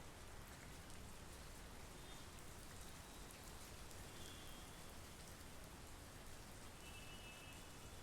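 Steady monsoon rain falling, a faint even hiss with scattered drop ticks. A few brief, faint high tones come and go over it.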